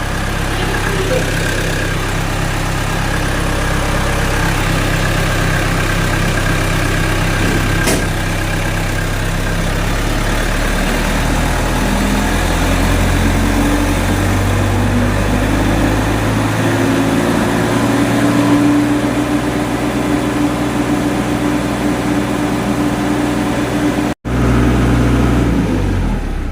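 Generator set engine running steadily after starting, following an adjustment of its starting fuel to cure hard starting. Its pitch rises about halfway through, it cuts out for an instant near the end, and then it winds down and stops.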